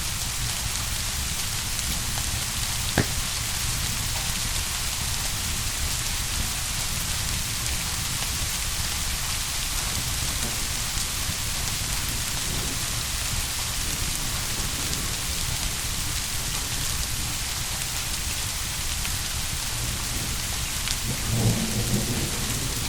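Steady heavy rain with a low rumble of thunder near the end. A single sharp click about three seconds in.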